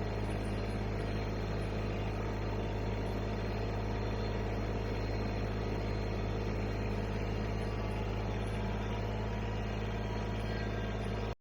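Vehicle engine running at a steady speed with a low, even drone that does not rise or fall.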